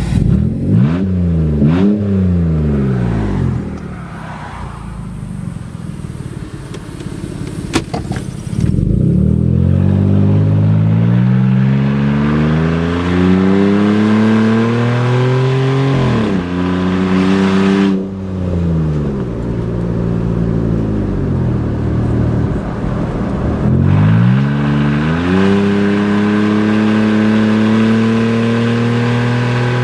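A 2012 Jeep Wrangler's 3.6-litre Pentastar V6 running with no exhaust past the catalytic converters, extremely loud. It revs quickly twice and eases off, then pulls hard under acceleration, its pitch climbing and dropping back at each upshift of the 5-speed automatic.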